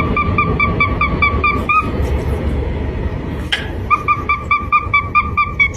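An animal's rapid run of short, identical high calls, about five a second, breaking off for about two seconds midway and then starting again, over a steady low rumble.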